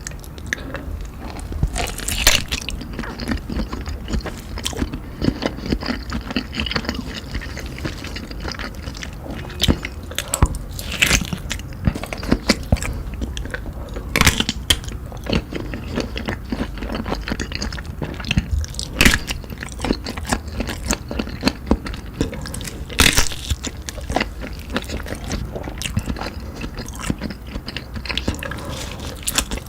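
Close-miked eating sounds: biting and chewing sausage with cheese, wet mouth clicks going on continuously, with a handful of sharper, louder bites standing out.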